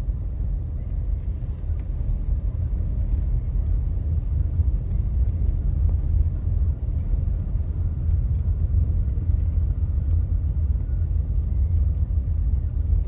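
Car driving on city streets: a steady low rumble of engine and road noise, with a few faint ticks.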